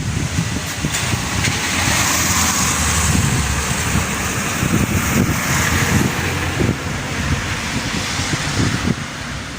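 Thunderstorm wind gusting hard against the microphone, with uneven low buffeting and a steady rushing hiss that is loudest in the middle.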